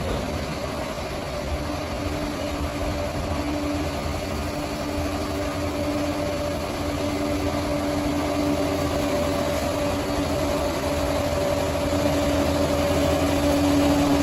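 Bulldozer's diesel engine running steadily, a little louder near the end.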